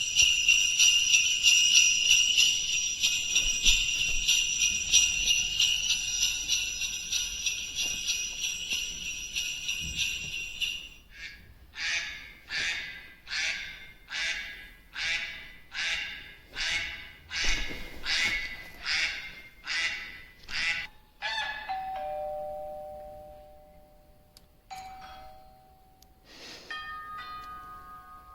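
A run of sound effects: jingle bells shaking steadily for about eleven seconds, then about a dozen evenly spaced honk-like calls, a little over one a second, then a few short steady tones near the end.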